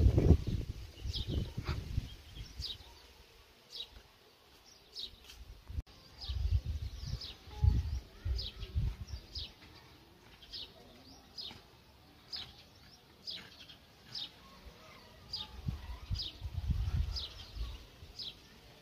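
A small bird chirping over and over: short, high, falling notes, about one or two a second. Low rumbling gusts of wind on the microphone come and go, loudest at the start.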